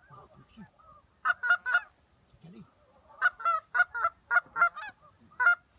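A flock of Canada geese honking: short calls in bursts, three about a second in, a quick run of about seven in the middle, and a single honk near the end.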